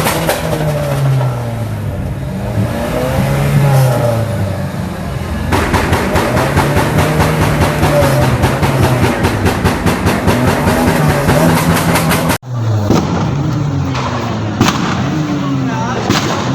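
Tuned car engines revving up and down against two-step launch limiters, with a rapid, dense crackle of exhaust pops and backfires. The sound breaks off abruptly about three-quarters of the way through, then the revving resumes.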